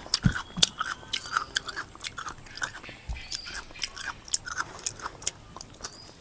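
A person chewing and biting food close to the microphone, with many irregular sharp wet mouth clicks and smacks.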